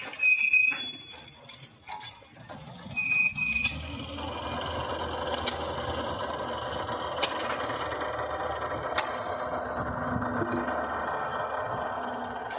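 Railway track panel assembly: steel is struck twice on steel near the start, each blow ringing, and then a steady mechanical running noise sets in with a few sharp metallic clicks.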